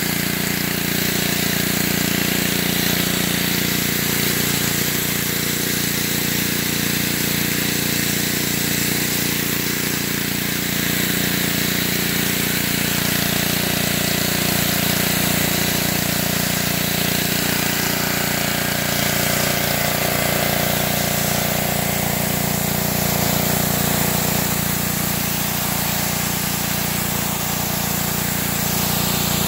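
Petrol-engine pressure washer running steadily under load, its engine note constant beneath the hiss of the high-pressure water spray.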